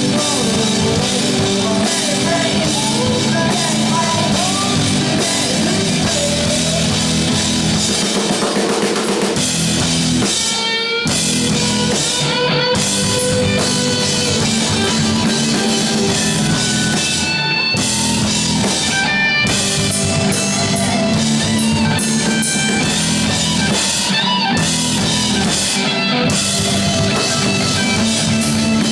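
Rock band playing live, drum kit and guitar to the fore, with a brief drop about eleven seconds in.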